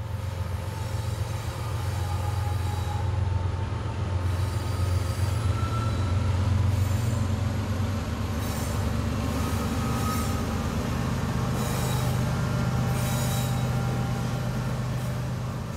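CN diesel-electric freight locomotive rolling past with its engine's steady low drone, the freight wagons behind it giving off high wheel squeals on and off in the second half.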